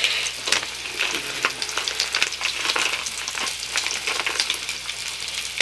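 Thick-cut bacon frying in a pan: a steady sizzle with many small pops and crackles of spitting fat.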